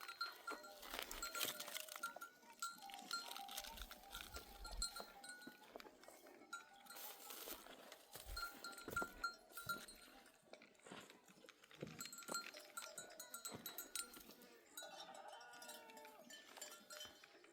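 Flock of sheep on the move, their neck bells clinking and ringing on and off, with scattered clicks and a bleat near the end.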